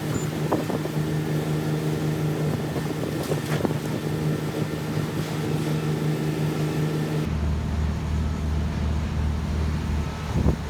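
Steady machine hum that switches abruptly to a lower-pitched hum about seven seconds in, with a few faint clicks.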